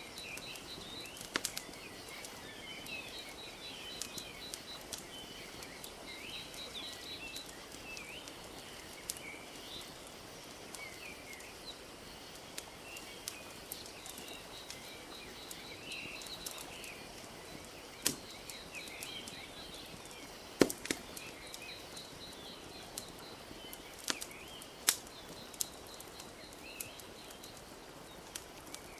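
Wood fire crackling with scattered sharp pops, the loudest a few near the end, over a steady wash of lake water lapping, while small birds chirp throughout.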